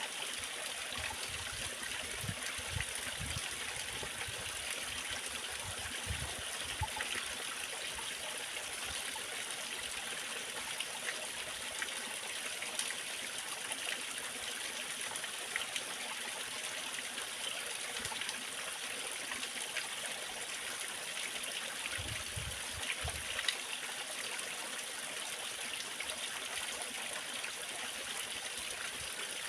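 Waterfall: water falling and splashing with a steady rushing, bubbling sound, broken now and then by soft low thuds, the plainest a little after 20 seconds in.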